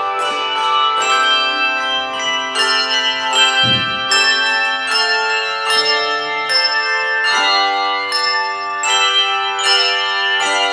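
Handbell choir playing a piece: a run of struck bell notes and chords, each ringing on for seconds. A brief low thump a little under four seconds in.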